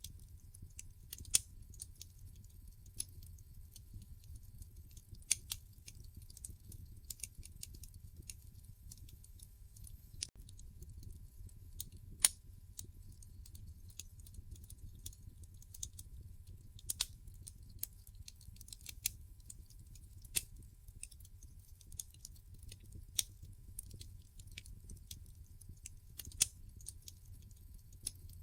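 Wood fire in a fireplace crackling: irregular sharp pops and snaps over a low, steady rumble, with a few louder snaps standing out now and then.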